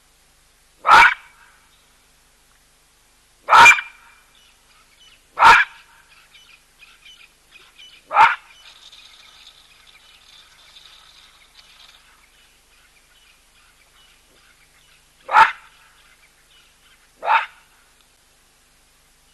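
Baboon giving loud single barks: six sharp calls a few seconds apart, with a longer gap before the last two. Faint bird chirps sound between the barks.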